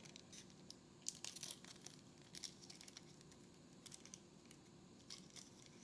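Faint, scattered crinkling and soft clicks of a trading-card pack wrapper and cards being handled, a few light rustles a second apart.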